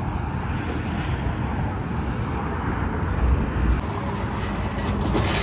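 A vehicle's engine running steadily with a low rumble, with a few light clicks near the end.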